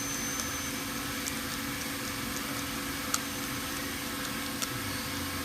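A steady mechanical hum in the room, with a few faint clicks of small metal parts as a piston is screwed in with a hand tool.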